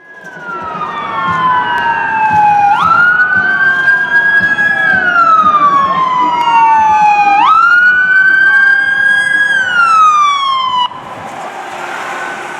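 Electronic wail sirens of a fire engine and rescue ambulance, two sirens wailing out of step and growing louder as the units approach. Each cycle rises quickly and falls slowly. The loud wail cuts off suddenly near the end, leaving a fainter siren tone.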